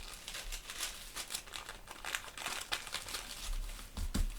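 Paper pages and tape on a freshly taped-up Bible crinkling and rustling as it is handled, with a low thump about four seconds in.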